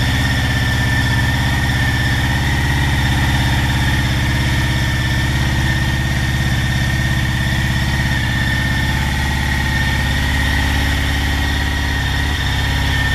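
Motorcycle engine idling steadily, with a steady high whine above the low engine note.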